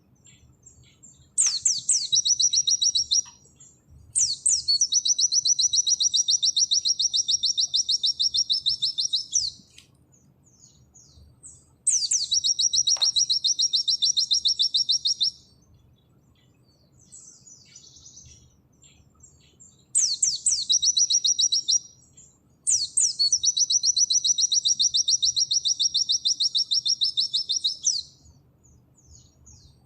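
Pleci (white-eye) singing in the 'nembak' style: five bursts of a fast, high, rattling trill, the longest about five seconds, with short pauses between.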